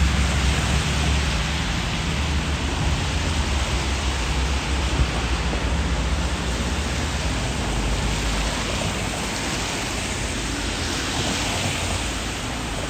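Steady hiss of rain falling on a city street, with a low traffic rumble that is heavier in the first half and slowly fades.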